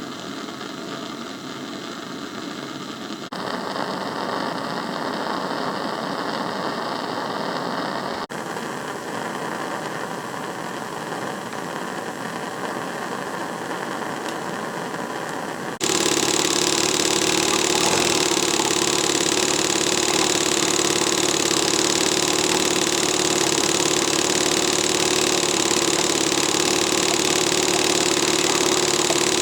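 Hand-made single-cylinder double-acting slide-valve model steam engine running under load, driving a 70 mm propeller, over a steady hiss. The sound shifts abruptly a few times and about sixteen seconds in becomes louder, with a steady tone and a high whistle over the hiss.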